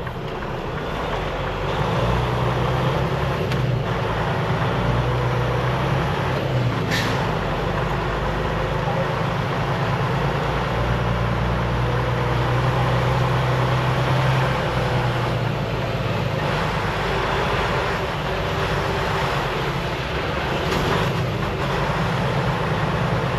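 Semi truck's diesel engine running at low speed while the truck moves slowly, a steady low hum, with one brief sharp sound about seven seconds in.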